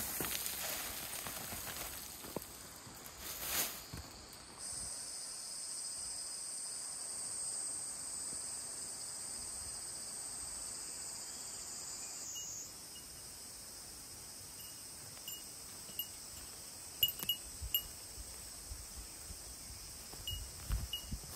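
Insects singing in a steady, high-pitched chorus that cuts off suddenly about halfway through, followed by a fainter chorus with short, high chirps near the end. Some rustling in the first few seconds.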